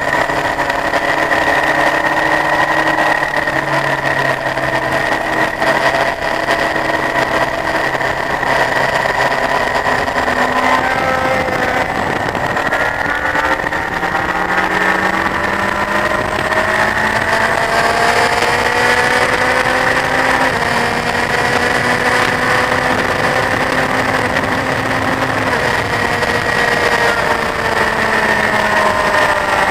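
Honda CBF1000 inline-four motorcycle engine under way. It holds steady revs for the first ten seconds, drops in pitch, then climbs again over several seconds as it accelerates, and falls off near the end.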